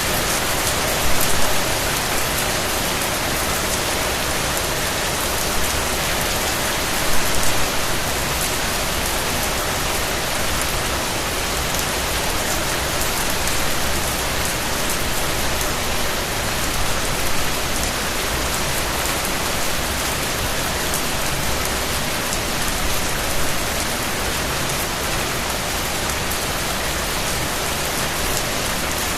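Steady rain falling on a surface, a dense even hiss of many drops, with a few slightly louder spatters about a second in and about seven seconds in.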